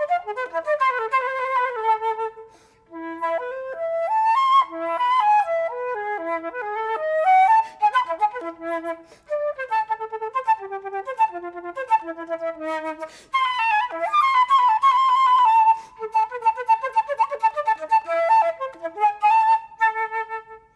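Solo concert flute playing quick runs and wide leaps, pausing briefly for breath twice. The phrase ends on a held note right at the close of the piece.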